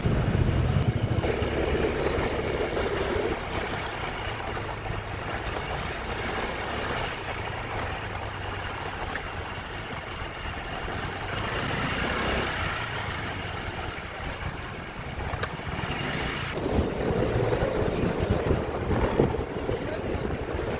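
Motorcycle running while being ridden, with wind noise on the microphone; the engine sound swells and fades a few times.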